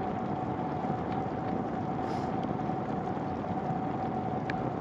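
Steady rushing wind and road noise of a bicycle ride on wet pavement, with a steady hum underneath and a brief high chirp near the end.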